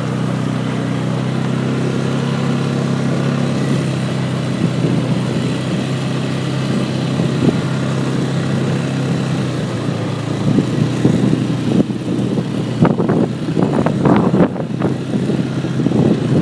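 Four-wheeler (ATV) engine running steadily under throttle. From about ten seconds in, repeated knocks and rattles come through as the machine jolts over rough, bumpy ground.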